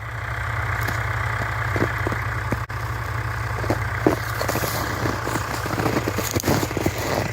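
A tractor engine idling with a steady low hum, with irregular crunching footsteps in dry snow over it.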